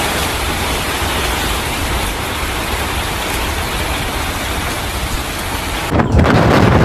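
Heavy rain coming down in a steady, dense hiss. Near the end it cuts abruptly to louder, rougher storm noise with strong wind buffeting the microphone.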